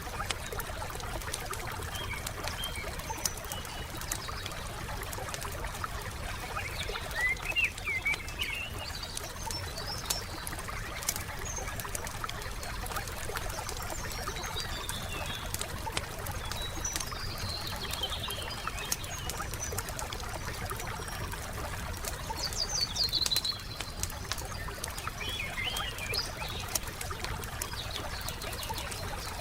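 Wood fire crackling with scattered small pops over a low steady rumble, with several short bursts of bird chirping, the loudest about three quarters of the way through.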